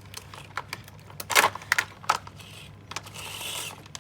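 Homewell box fan running with a steady low motor hum and irregular plastic ticking and clicking, one louder clatter about a second and a half in. A rasping screech comes in near the end.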